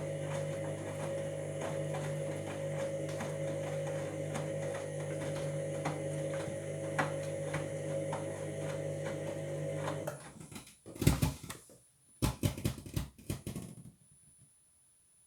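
Washing machine running a wash with a steady motor hum and irregular clicking and grinding from the drum, which the owner takes for worn drum bearings. The hum stops suddenly about ten seconds in, followed by a few loud knocks and clatters.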